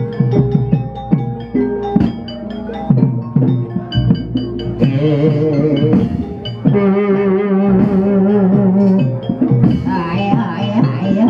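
Live Banyumasan gamelan music for an ebeg dance: struck metallophone or xylophone notes ring over kendang drum strokes. A little before halfway a singer joins and holds a long, wavering note for about four seconds, then the struck patterns carry on.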